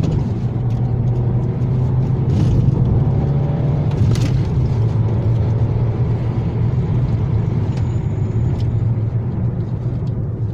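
Cabin sound of a Volkswagen Golf Mk6 GT TSI on the move: the 1.4 TSI petrol engine's steady drone over road and tyre noise. Two brief knocks come through, about two and a half and four seconds in, from the very firm suspension.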